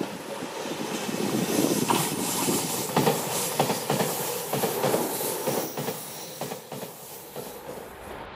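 JR Shikoku 8000 series electric limited-express train passing close at speed, with a rushing hiss and the repeated clack of its wheels over rail joints. It is loudest a few seconds in and fades as the train draws away.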